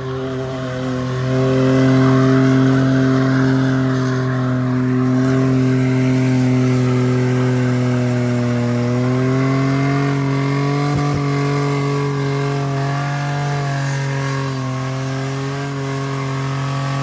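Engine held at steady high revs during a burnout, pitch creeping up and wavering about halfway through, over a hiss that is loudest in the first few seconds.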